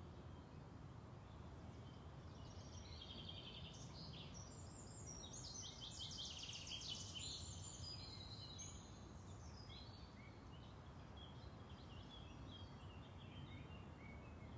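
Faint birdsong over a quiet outdoor background: small birds chirping and trilling, busiest around the middle.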